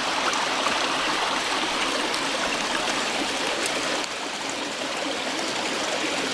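Mountain valley stream flowing, a steady rush of running water.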